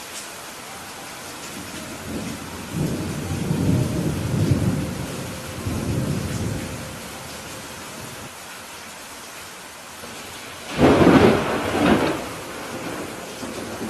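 Steady rain falling, with thunder rumbling twice: a low, rolling rumble a few seconds in and a louder, sharper peal near the end.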